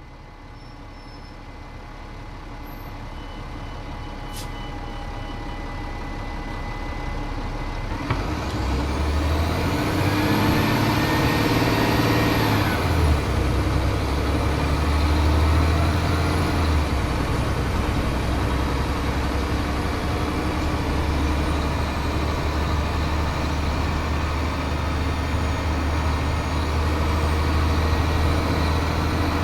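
Cummins ISL diesel engine of a 2007 Gillig Advantage transit bus, working through its Voith DIWA automatic transmission. It runs low and grows gradually louder, then pulls away hard about eight seconds in with a rising whine. It eases off around thirteen seconds and settles into steady running.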